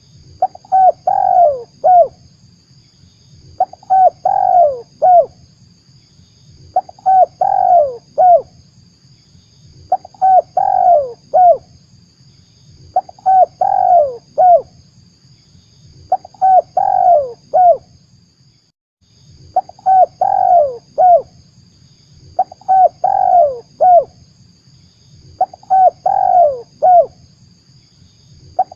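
Spotted dove (tekukur) cooing as a lure call: one phrase of three or four falling coos, repeated the same way about every three seconds.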